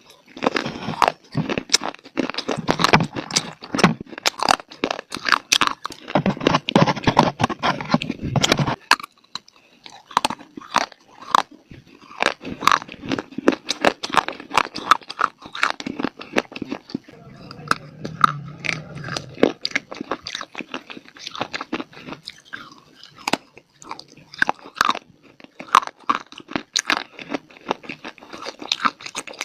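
A person biting and chewing dry baked clay (mitti) close to the microphone: dense, irregular crisp crunches and crackles that pause briefly about a third of the way in.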